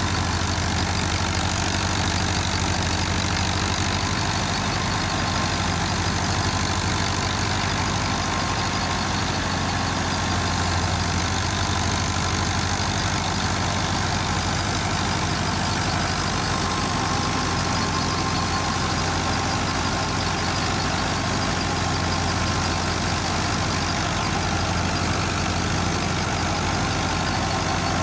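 Tractor engine running steadily at an even speed, with no change in pitch or loudness.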